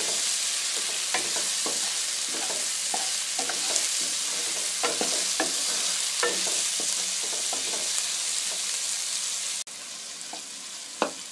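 Onions and tomatoes sizzling in hot oil in a nonstick kadai, stirred with a wooden spatula that scrapes and knocks irregularly against the pan as the onion-tomato masala fries down. The sizzle drops suddenly near the end.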